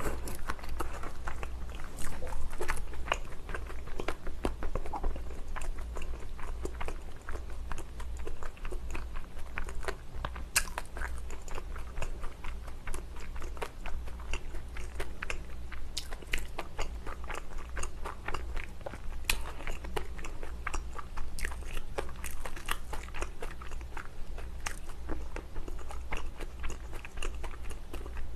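A person chewing a mouthful of spicy Korean dumplings (mandu), picked up close by a lapel mic: a steady run of small wet clicks and smacks, with a low steady hum underneath.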